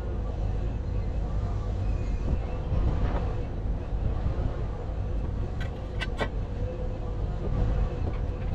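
An engine running with a low rumble and a steady hum, and three sharp clicks in quick succession about six seconds in.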